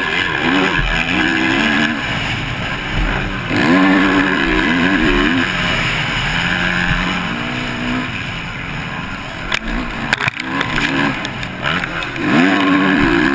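Motocross bike engine revving up and down repeatedly as it races around the track, picked up by the rider's onboard camera with steady wind noise. A few sharp knocks come about three quarters of the way through.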